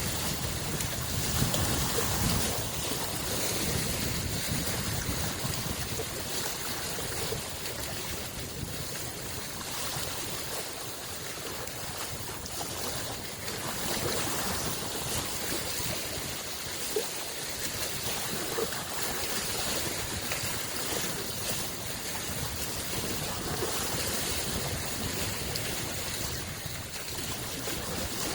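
Small lake waves lapping and splashing along the shore in a continuous wash, with soft swells and a few light splashes.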